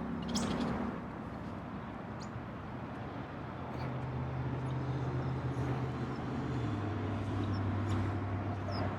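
Outdoor ambience: a steady low engine hum, like idling or passing traffic, that drops in pitch about two-thirds of the way through, over a background hiss, with a few faint bird chirps near the start and end.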